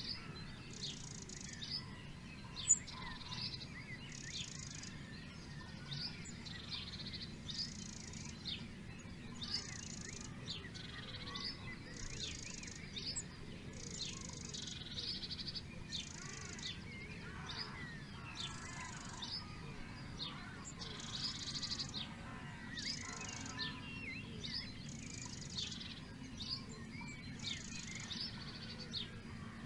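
Several songbirds singing together in a woodland chorus of many short chirps. One high, buzzy phrase repeats about every second and a half over a steady low background hum.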